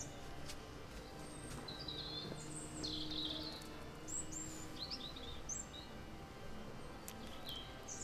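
Small birds chirping outdoors, a string of short high calls and brief phrases, over a low steady background hum of ambient noise.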